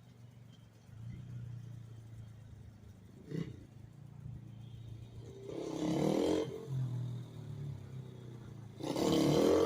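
Pit bike engine running at a low idle, with a short sharp sound a few seconds in and two louder bursts of throttle, about six and nine seconds in.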